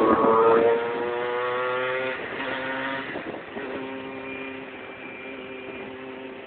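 Motorcycle engine accelerating away. Its pitch climbs and then drops back a couple of times as it shifts up through the gears, and the sound fades steadily as it moves off.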